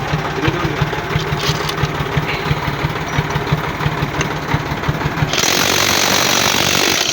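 An engine running with a steady low pulsing. About five seconds in, a Lucid impact wrench starts hammering on a 41 mm truck wheel nut and runs for about two seconds.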